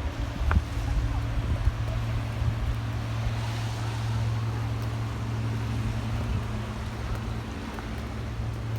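A ferry's engine running with a steady low hum, with wind buffeting the microphone.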